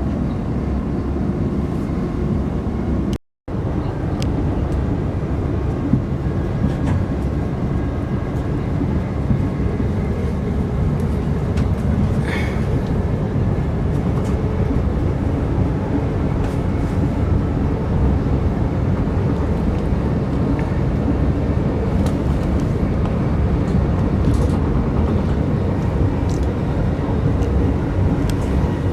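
Steady running noise inside a Class 387/1 Electrostar electric multiple unit on the move, a continuous low rumble. The sound cuts out completely for a moment about three seconds in.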